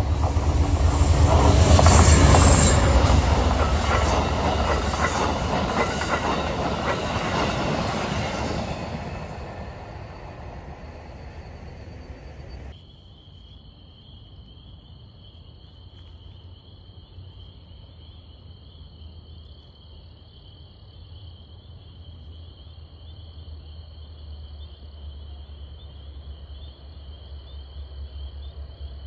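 A train passing close by on the rails, its wheels clattering and squealing, loudest about two seconds in and then fading away. After an abrupt cut it is quieter: insects chirp steadily while the low rumble of a distant approaching train slowly grows louder.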